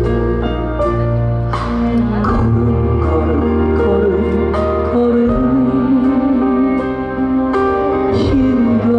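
A band plays a slow ballad live, with sustained keyboard chords and a few cymbal crashes, and a male voice sings over it.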